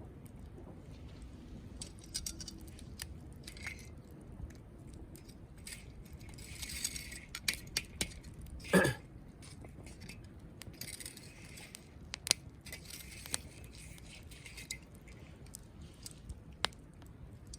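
Wood campfire crackling in a fire pit, with irregular small snaps and a few louder pops.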